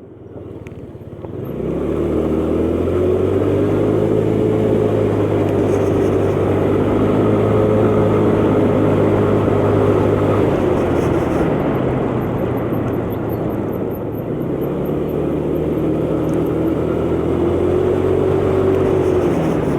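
125cc motor scooter engine running on the move. It picks up a second or two in and holds a steady pitch, eases off around the middle, then climbs again before dropping back near the end.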